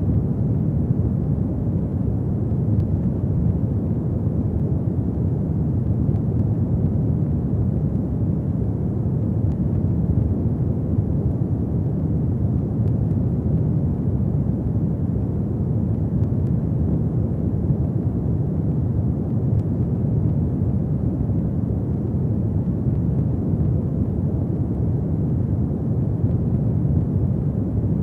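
Fireplace fire burning with a steady low roar and a few faint crackles.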